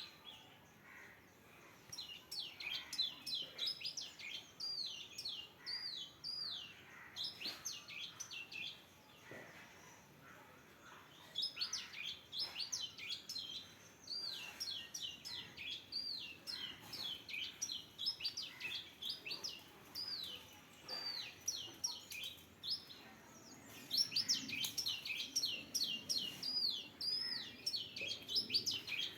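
A bird chirping in fast runs of short, high chirps, several a second, in bouts with brief pauses between them.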